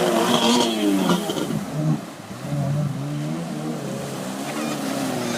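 Bombardier Sea-Doo's freshly rebuilt two-stroke engine running under way, its pitch rising and falling with the throttle; it drops off about two seconds in, then climbs steadily again.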